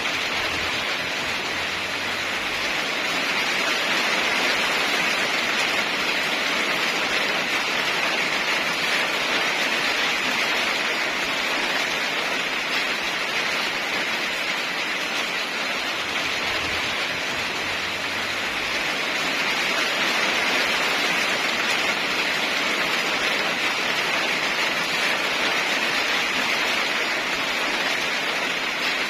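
Steady heavy rain: a dense, even hiss of downpour, swelling slightly in loudness now and then.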